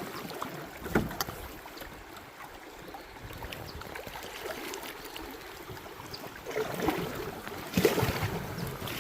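Canoe paddles working through fast, rushing river water around a fiberglass canoe, with a sharp knock about a second in and louder splashing near the end.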